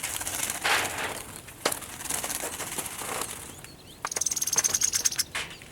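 Small birds fluttering and scrabbling in a trap while being caught by hand. About four seconds in comes a quick burst of rapid wing-beating.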